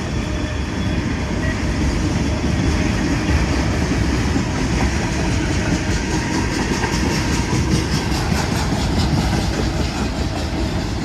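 Freight train cars rolling past at close range, a steady rumble with the wheels clicking rhythmically over the rail joints.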